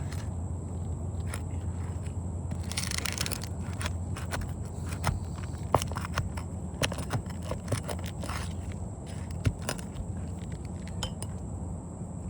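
Asphalt roof shingles being worked loose by hand: crackling, scraping and scattered sharp clicks, with a longer scrape about three seconds in, over a steady low rumble.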